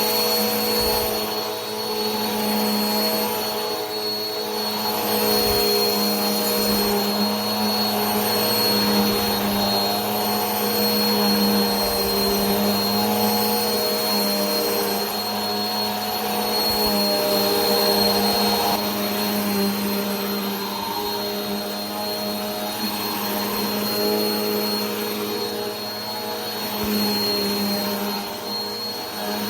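Vacuum cleaner running continuously: a steady motor drone with a high whine, swelling and easing slightly in level.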